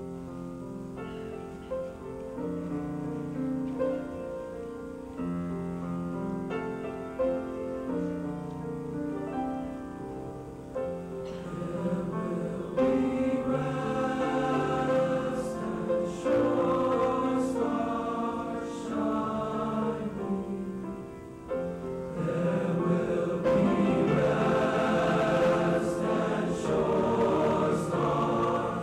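Junior high school choir singing, swelling louder partway through.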